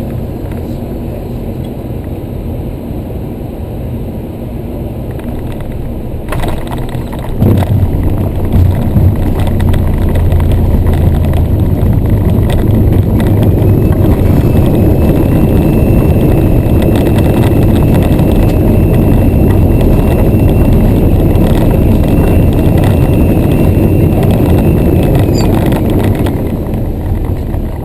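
Boeing 737-300 flight deck during landing: a steady rush of airflow, then a jolt about six to seven seconds in as the wheels touch down, followed by a much louder deep rumble of the rollout on the runway that eases near the end.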